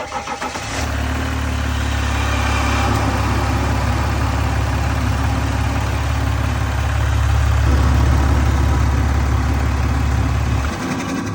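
EcoDiesel turbodiesel engine running, starting abruptly. A strong steady drone slowly grows louder, then its low part drops away near the end.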